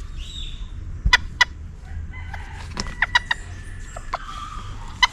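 Domestic chickens clucking: short single clucks, with a quick run of them about three seconds in.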